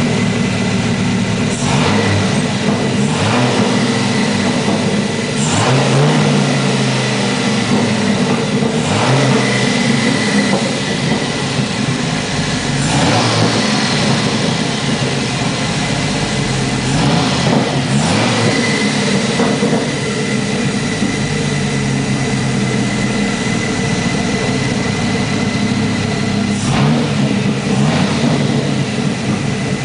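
Dodge Viper 8.3-litre V10 engine idling on a run test and revved briefly several times, settling back to idle after each rev, with a thin steady whine above the engine note.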